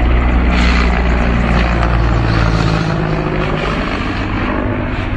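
A loud engine running steadily, a low hum under a rushing noise.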